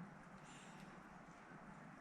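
Near silence: faint steady background noise, with a soft brief rustle about half a second in.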